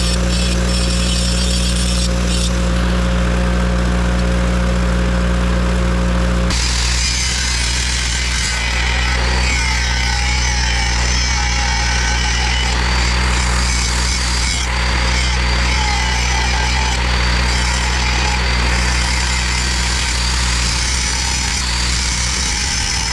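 Electric grinder sharpening steel mower blades, with a portable generator's engine running steadily to power it. The grinding sound shifts about six seconds in.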